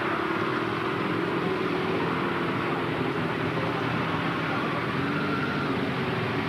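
Vehicle engines running steadily, a continuous engine hum with slowly wavering pitch and no sudden events.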